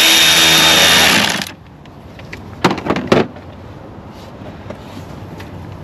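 Power drill running steadily with a thin high whine, driving an 8 mm socket to tighten a hose clamp, and stopping about a second and a half in. A few sharp clicks follow about three seconds in.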